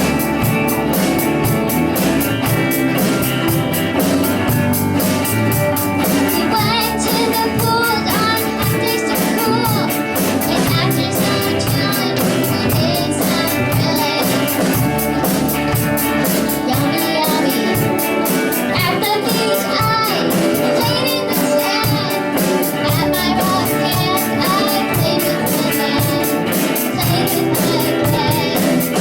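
Live rock band of young musicians playing a song: drum kit, electric guitar and bass, with a young singer's voice over it.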